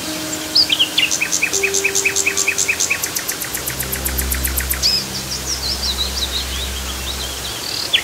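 Songbirds singing in fast, repeated trill notes and chirps over an even rush of falling water, with soft sustained low music notes underneath.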